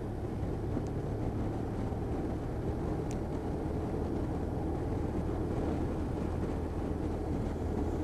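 Motorcycle running steadily at cruising speed, with road and wind noise and a constant low engine hum.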